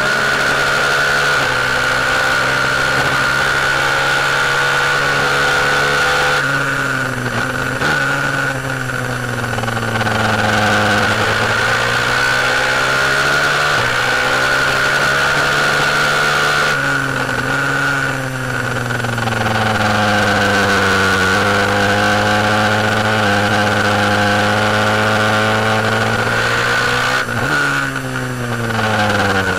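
A KTM 690 single-cylinder racing motorcycle engine running hard at speed, heard onboard. Its pitch holds steady, then falls away and climbs again a few times through the lap, over a steady high whine and wind hiss.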